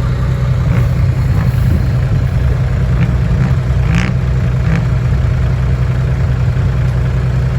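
Dump truck's diesel engine idling steadily, with a low even drone throughout.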